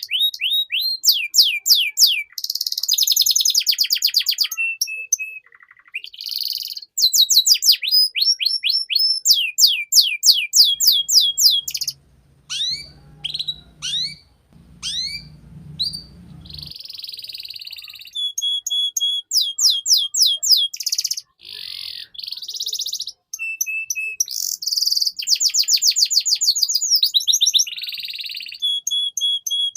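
Domestic canary singing a long, continuous song of fast trills: rapid runs of repeated sweeping notes, buzzy rolls and brief held whistles, broken by short pauses. A faint low rumble sits underneath for a few seconds around the middle.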